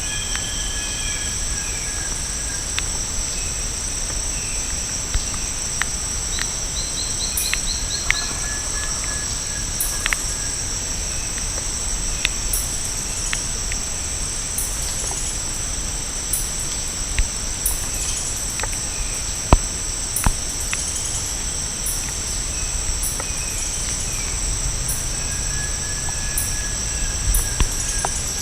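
Tropical rainforest ambience: a steady, high, shrill insect chorus runs throughout, with scattered short bird calls, including a quick run of high notes about seven seconds in, and a few sharp clicks.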